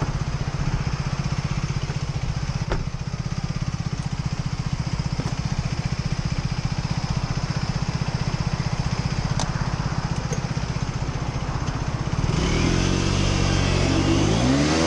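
Motorcycle engine idling with a steady pulse. About twelve seconds in its note rises and falls as it is revved or accelerated.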